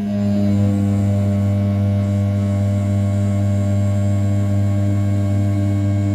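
Brushless CNC spindle at 6000 rpm with an end mill cutting A7075 aluminium during outer-profile roughing: a steady, loud machining hum of fixed tones. Right at the start it grows slightly louder and picks up extra higher tones, then holds steady.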